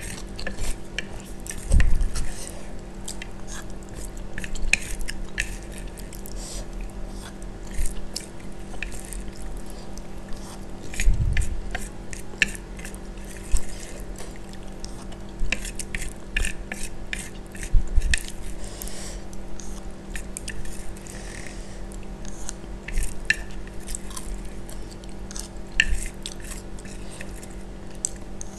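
Close-miked eating sounds of instant noodles: irregular wet mouth smacks and chewing, with a few louder bites or gulps about two, eleven and eighteen seconds in.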